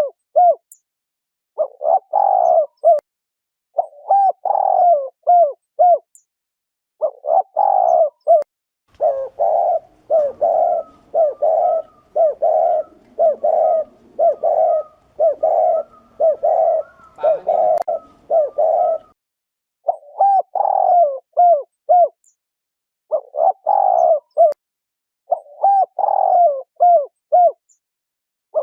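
Spotted doves giving the bowing 'gù' coo, the male's courtship and challenge call, in repeated short phrases about a second long with brief pauses between. From about 9 to 19 s the coos come in a faster, almost unbroken run over a faint background hiss.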